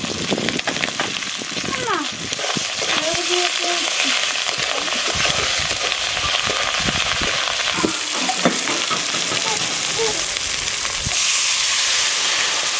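Spices and chillies sizzling in hot oil in a metal kadai, with a metal spatula scraping and stirring against the pan. The sizzle grows louder about eleven seconds in.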